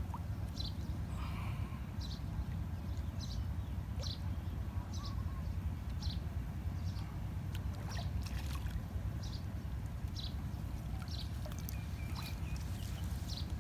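Outdoor ambience by a canal: a steady low rumble with a short, high call repeating about every three-quarters of a second, and a few faint clicks.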